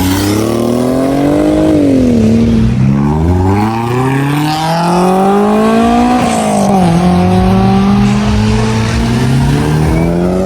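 A car engine being revved, loud: the pitch climbs and falls, climbs again, drops sharply about six seconds in, holds steady, and rises again near the end.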